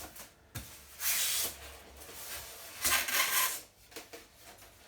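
Packing material being pulled off a new washing machine: a sharp click, then two short rustling scrapes about two seconds apart.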